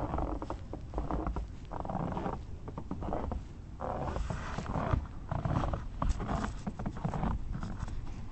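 Footsteps crunching and squeaking in fresh snow, a steady walking pace of roughly one step a second.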